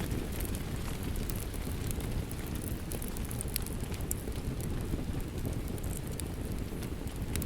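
Steady rain with a wood fire crackling: a dense low rumble throughout, scattered with small sharp pops and ticks.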